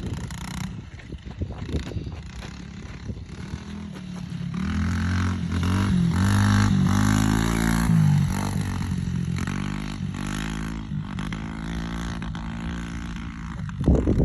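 Dirt bike engine running, growing louder from about four seconds in with its pitch rising and falling as the throttle opens and closes, then easing to a quieter, steadier note in the second half.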